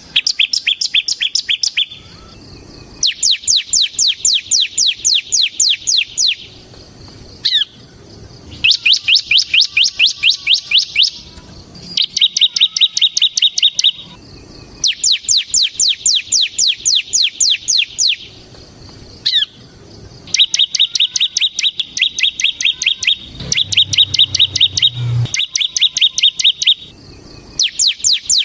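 Bar-winged prinia (ciblek) in full song: a run of loud, high, rapid trilled phrases, each about two to three seconds long with short pauses between them. The phrases alternate between fast ticking note series and steady buzzy trills.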